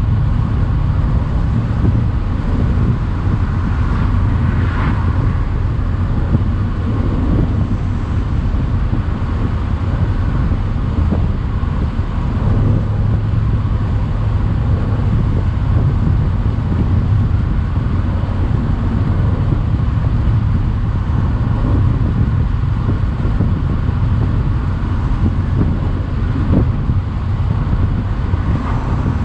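Mercedes-AMG C63 convertible's twin-turbo 4.0-litre V8 running at a steady pace, heard with the roof down along with wind and tyre noise.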